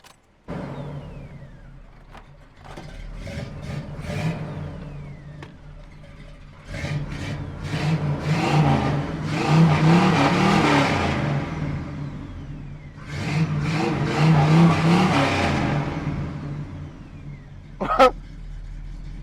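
Car engine starting about half a second in, then idling and being revved up repeatedly, with two longer, louder revs in the middle before settling back to idle. The engine is running on 93-octane fuel mixed with a little race fuel, and the owner finds it sounds good.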